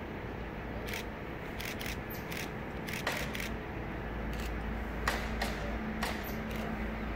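Distant rumble of an approaching train, its steady drone growing stronger from about halfway, with a series of short sharp clicks scattered over it.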